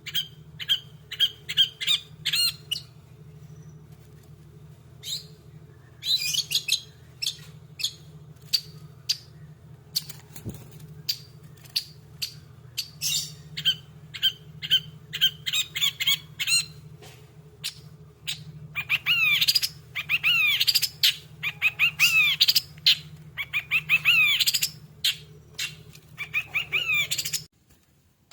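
Long-tailed shrike (cendet) singing excitedly in rapid runs of short, sharp, harsh notes and chattering calls, with brief pauses. Over a steady low hum, it stops abruptly near the end.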